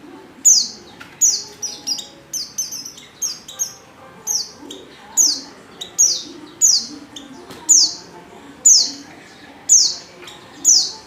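Female pleci (white-eye) repeating short, high calls, each note sliding down in pitch, about one or two a second: the call of a female in breeding condition calling to males.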